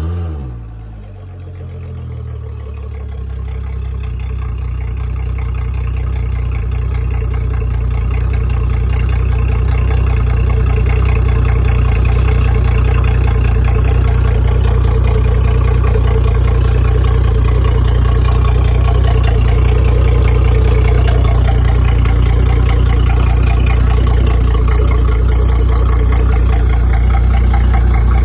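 Outboard engine of a 2018 Scout 225 XSF boat catching with a brief flare of revs, the pitch dropping within a second or two, then settling into a steady idle.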